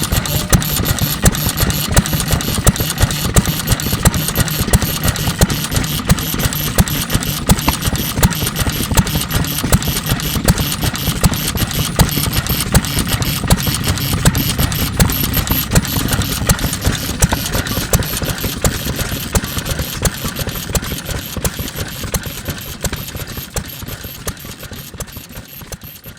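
NATIONAL Type FK 3 hp single-cylinder stationary engine running steadily, with a regular beat of sharp knocks over its mechanical clatter. The sound gradually fades away over the last several seconds.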